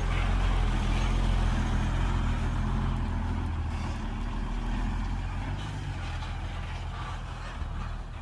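Heavy diesel dump truck engine running, loudest in the first few seconds and then fading.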